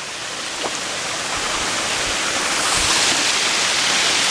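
Waterfall's rushing water, a steady roar of noise that grows louder over the first few seconds.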